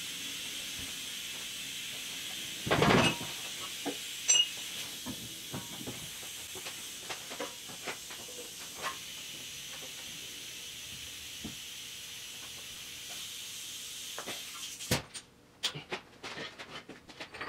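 Scattered metal clinks and knocks of hand tools and parts, with a louder knock about three seconds in and a flurry of clicks near the end, over a steady hiss that cuts off suddenly near the end.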